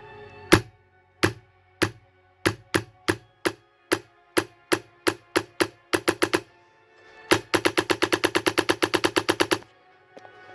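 HPA-powered airsoft ARP9 with a Raven HPA engine firing: sharp single shots that come quicker and quicker, then a full-auto burst of about nine shots a second for about two seconds near the end.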